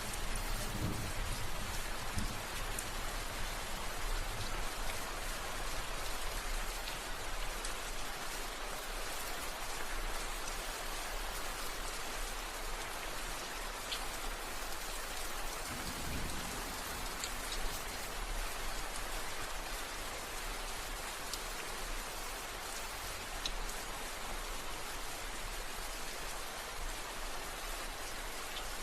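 Steady rain falling on a surface, an even hiss with scattered drop ticks. A low rumble of distant thunder fades out in the first couple of seconds and briefly returns about halfway through.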